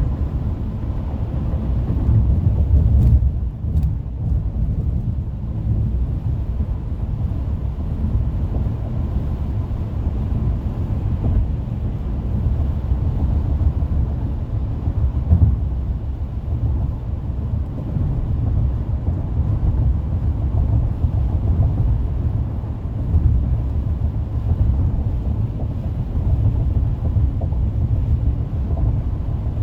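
Car driving at freeway speed: steady low road and tyre rumble, with no engine note or voices standing out.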